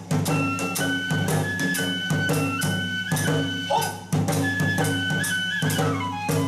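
Bangaku hayashi ensemble: a bamboo transverse flute holds and steps between high notes over rapid, even drum and hand-cymbal strokes.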